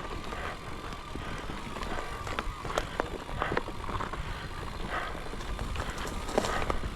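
Mountain bike ridden over a rough dirt trail: rumbling tyres and rattling frame and parts, with many sharp knocks and clicks as it bounces over rocks and roots.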